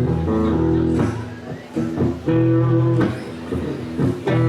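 Live band playing amplified guitar chords over bass, in loud held blocks broken by short pauses.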